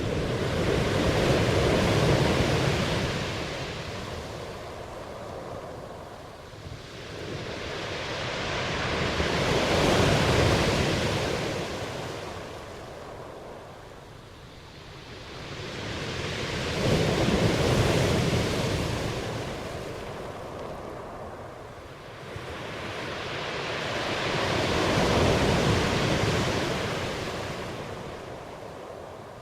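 Ocean surf: waves rushing in and washing back, the wash swelling and fading four times, about every eight seconds.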